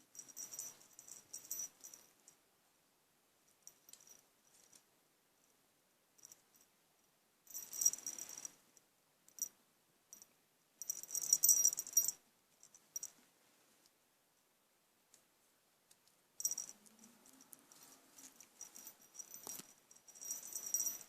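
Light rattling and jingling in several separate bursts, each a second or more long, with quiet gaps between them.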